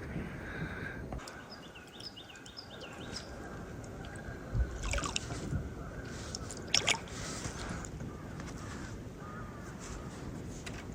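Canoe paddle dipping and pulling through calm water, with sloshing and drips off the blade. There are sharper splashes about five and seven seconds in.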